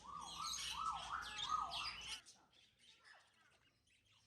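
Caged birds chirping and squawking together, with one call repeatedly swooping down and back up about twice a second. The sound cuts off abruptly about two seconds in, leaving only faint scattered chirps.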